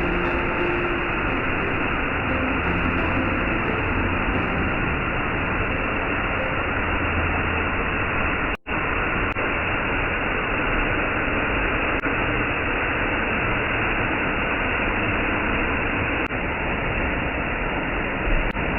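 A steady, even rushing noise with no tone in it, broken by a brief dropout about nine seconds in.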